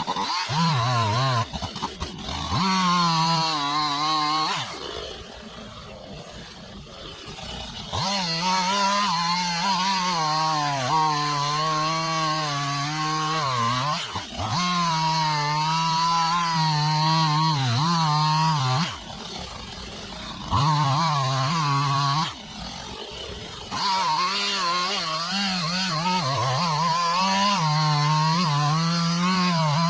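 Two-stroke chainsaw running at high revs in long stretches, its pitch wavering, and dropping back to a quieter idle three times.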